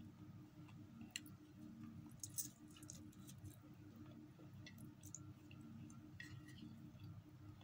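Faint eating sounds: small wet mouth clicks and chewing as instant noodles are eaten by hand, over a low steady hum. A short cluster of sharper clicks comes about two and a half seconds in.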